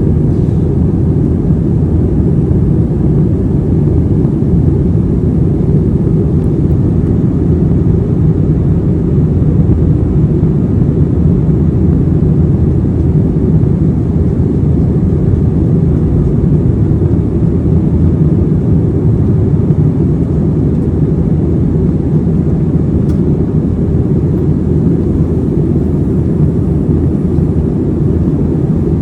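Airbus A321 airliner heard from inside the passenger cabin: a steady, loud low rumble of jet engines and airflow, unchanging throughout.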